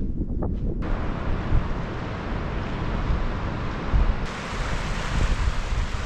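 Wind buffeting the microphone, joined suddenly about a second in by a steady rush of surf that gets brighter about four seconds in.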